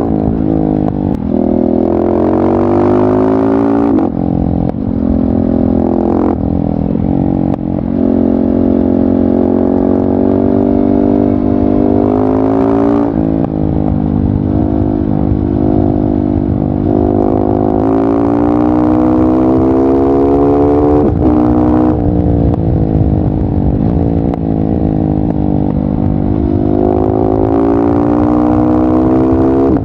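KTM 690 SMC R's single-cylinder engine running through a LeoVince exhaust while riding: the pitch climbs under acceleration and drops sharply at each gear change, several times over, with steadier stretches between.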